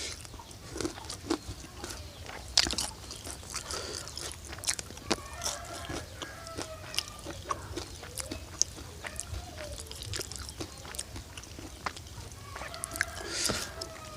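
Close-up eating sounds: irregular chewing, crunching and mouth smacks as a person eats. Short wavering calls are also heard in the background.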